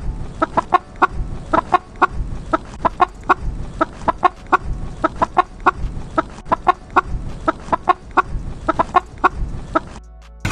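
Chickens clucking: many short, irregular clucks, about three a second, over a low background rumble.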